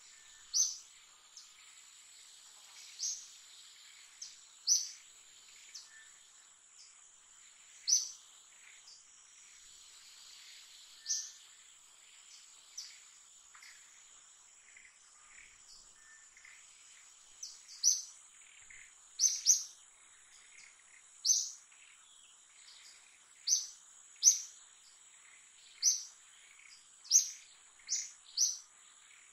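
Short, sharp, high bird chirps repeated at irregular intervals, more often in the second half, over a steady high-pitched insect drone.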